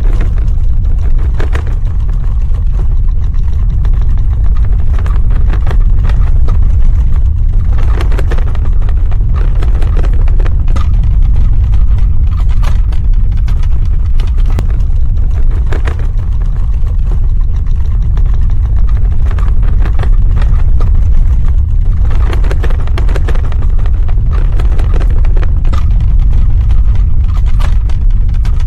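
Earthquake rumble sound effect: a loud, continuous deep rumble with scattered crackling and rattling on top, which thickens twice.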